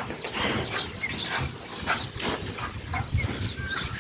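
Pigs grunting: a run of short grunts.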